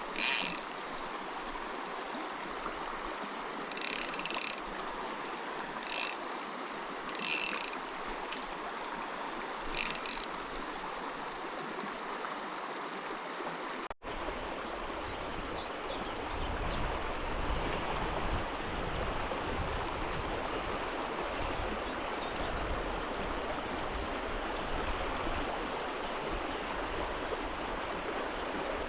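Mountain stream rushing steadily, with about five short bursts of a fly reel's clicking ratchet in the first half as line is pulled off or wound in. About halfway through the sound cuts, and the stream runs on with a deeper rumble.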